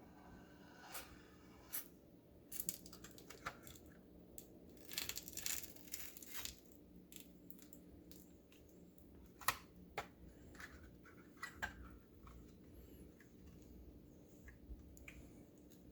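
Faint scraping, crinkling and scattered sharp plastic clicks as the adhesive-backed face cover of an oven control panel is scraped and peeled off, with a longer crackling stretch about five seconds in.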